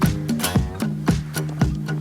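Strummed acoustic guitar over a steady boom-bap drum beat, playing an instrumental break between sung verses.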